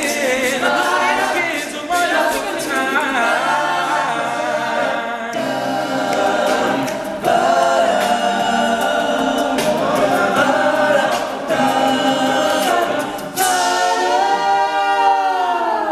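Male a cappella group singing in close vocal harmony. Near the end they hold a long final chord that slides down in pitch and fades out.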